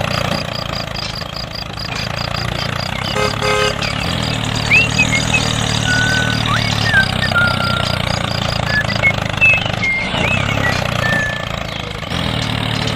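An engine running steadily at idle, a low even hum, with short high whistling chirps scattered over it.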